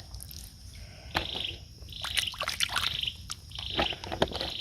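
Water splashing and trickling with short clicks, while a small animal's high, buzzy chirp repeats about every half second to second.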